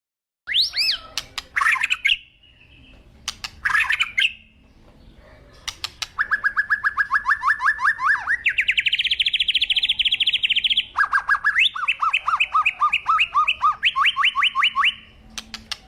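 A songbird singing: a few short chirps, then long fast trills of repeated notes, about nine a second, that jump higher in pitch partway through and change pattern again near the end.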